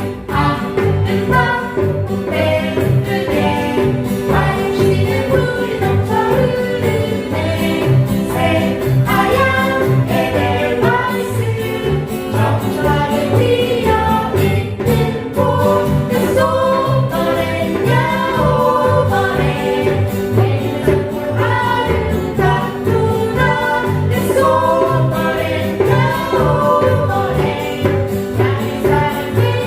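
A group of voices singing a song together over a steady rhythmic instrumental accompaniment.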